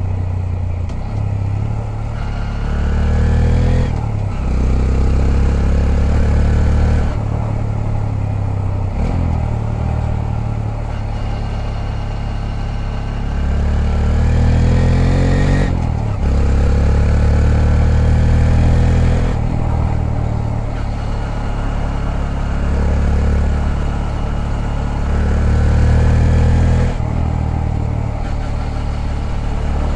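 Honda Grom's 125 cc single-cylinder four-stroke engine out on a ride, revving up through the gears. Its pitch rises steadily several times and drops back sharply at each shift or throttle lift.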